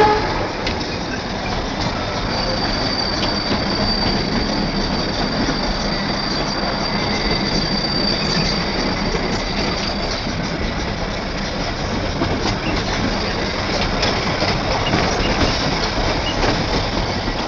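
Darjeeling Himalayan Railway diesel train running, heard from a coach window: a steady running noise of the coaches on the narrow-gauge track. A thin, high wheel squeal comes in about two seconds in and stops around ten seconds.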